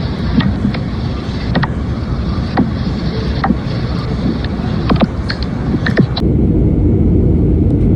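Steady roar of an aircraft, with scattered sharp clicks. About six seconds in, the sound shifts abruptly to a louder, deeper roar.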